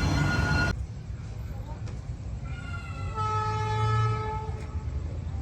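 Train running past with a steady whine over its rumble, cut off abruptly under a second in, followed by a locomotive horn sounding one steady blast of about two seconds.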